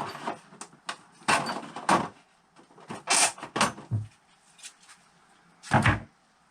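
Engine bolts and the screw template being handled on a workbench: a series of short knocks and scrapes, with a loud one about three seconds in and another near the end.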